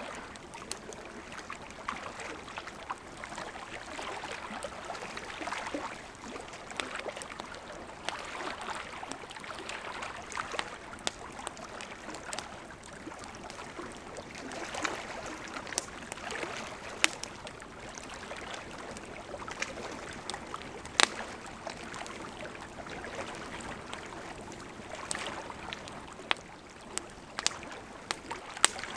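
Wood burning in a campfire: a steady hiss with frequent irregular crackles and sharp pops. A few pops stand out loud, the sharpest about two-thirds of the way through.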